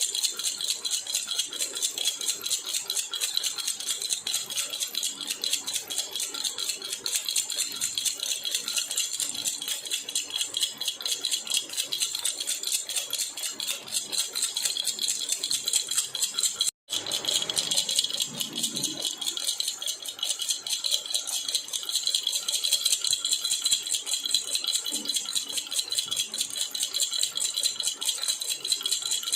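Jhunjhuna baby rattle shaken steadily and quickly, giving a continuous bright jingling rattle. It cuts out for a split second about 17 seconds in.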